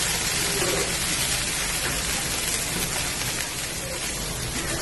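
Chopped onions and spring onions sizzling steadily in hot oil in a pan as they are stirred with a wooden spoon.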